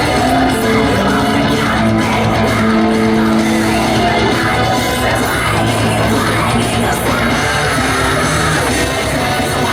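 Loud rock music with electric guitar and singing, playing steadily without a break.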